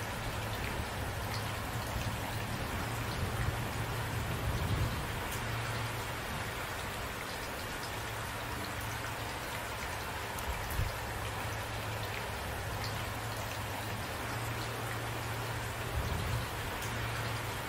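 Steady rain falling, an even hiss of drops, with a low rumble underneath and a few brief, soft low swells.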